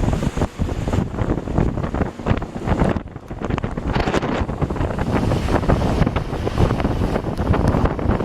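Wind buffeting the microphone as a towed banana boat rides fast over the water, with water rushing and splashing. It eases off briefly about three seconds in.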